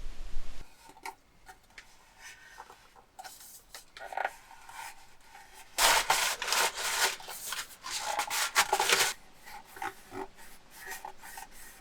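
Irregular rubbing and scraping strokes, something being handled or wiped, loudest and densest from about six to nine seconds in.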